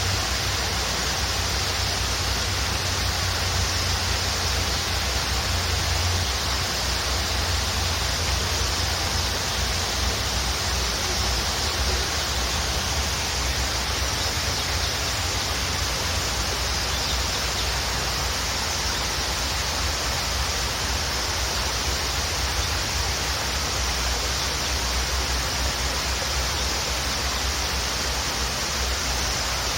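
Waterfall rushing steadily: an even, unbroken roar of falling water with a deep low rumble underneath and a bright hiss on top.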